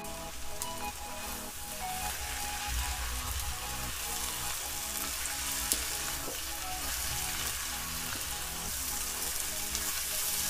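Sliced onions and ground spices sizzling in oil in a kadhai on medium flame, with a wooden spatula stirring and scraping them through the pan as the masala is fried.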